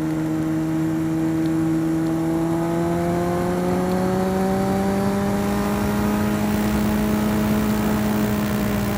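Sport motorcycle engine running at a steady cruise, its pitch rising gradually from about three seconds in as the bike speeds up, then holding, with wind rushing past.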